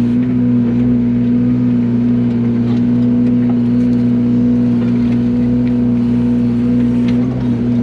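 Yanmar mini excavator's diesel engine running steadily at a constant speed, with a few faint clicks over it.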